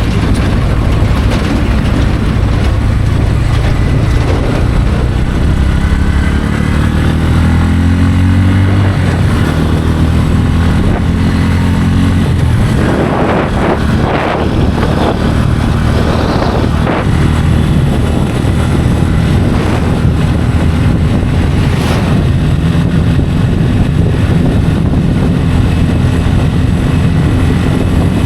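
Bajaj Pulsar N160's single-cylinder engine running under way, heard from the rider's position with road and wind noise. The engine note climbs as the bike accelerates, breaks and drops about halfway through, then holds steady.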